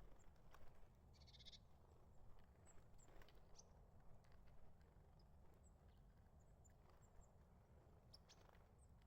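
Eurasian tree sparrows and tits calling faintly. There are scattered short, very high, thin notes, and one longer buzzy call about a second in, over a low background rumble.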